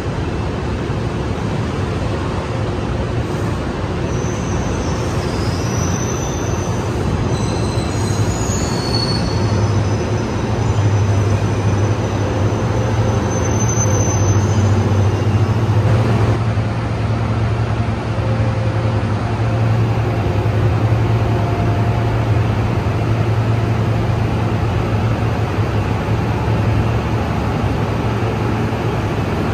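NJ Transit Multilevel passenger train rolling slowly past, steady wheel rumble with high-pitched wheel squeals in the first half, then a steady low hum that grows as the Bombardier locomotive at the end of the train comes alongside.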